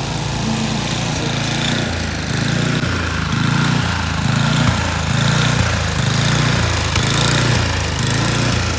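Gas snowblower engine running steadily, its note wavering up and down in a regular pulse a little under twice a second.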